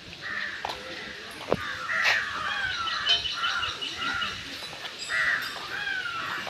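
Crows cawing again and again, short calls that drop in pitch and overlap one another.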